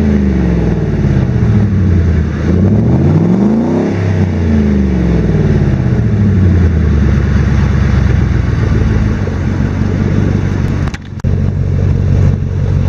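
2001 Ford F-150's 4.6 V8 through a single 23-inch Cherry Bomb glass pack muffler with stock catalytic converters: the engine falls from a rev, is revved up once more about four seconds in, drops back, then settles into a steady idle.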